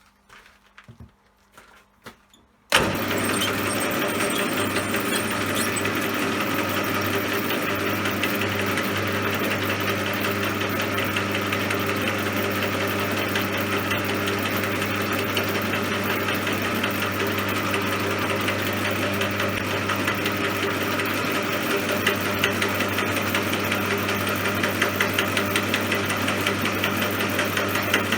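A few light clicks, then about three seconds in a CJM360 metal lathe switches on abruptly and runs at a steady speed, a constant machine hum with a whirring hiss above it.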